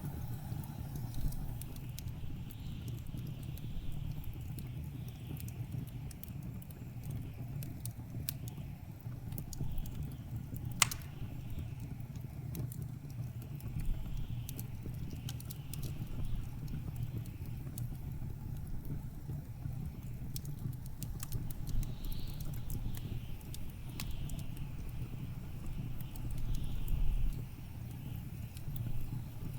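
Wood fire crackling with scattered pops, one sharper pop about a third of the way in, over a steady low rumble and blizzard wind gusting outside.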